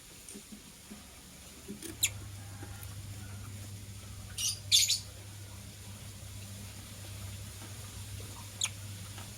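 Lovebirds giving a few short, sharp, high-pitched chirps: one about two seconds in, a louder pair near the middle and one more near the end, over a steady low hum.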